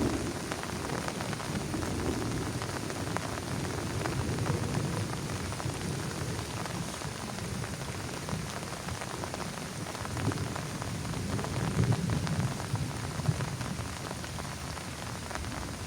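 Heavy rain falling steadily on a plastic tarp, a dense patter of drops with a low rumble underneath that swells about eleven seconds in.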